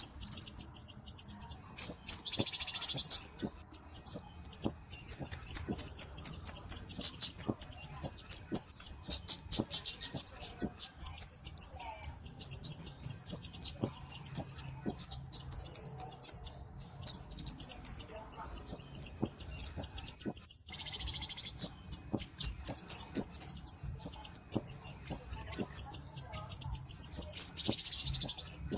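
Flowerpecker (burung cabe-cabean) calling: long runs of rapid, high, thin ticking notes, several a second, broken by short pauses.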